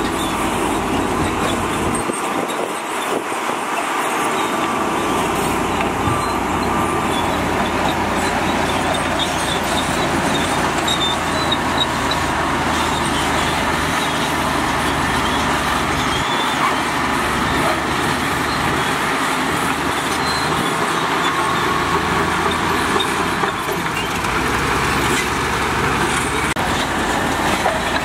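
Heavy vehicles running: a loud, dense, steady noise with no breaks.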